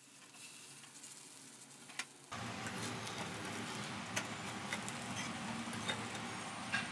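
Vegetable tikkis frying in a little oil in a pan: a faint steady sizzle with scattered small pops, louder from about two seconds in.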